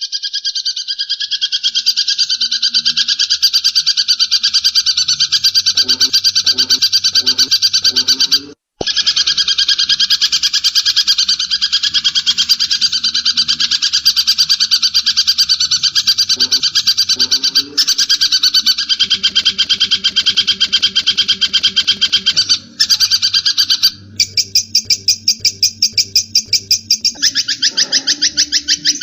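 Cendet (pentet) shrike singing a long, loud, rapid rolling chatter of high notes, broken only by a few brief pauses; near the end the notes come more spaced out and clipped.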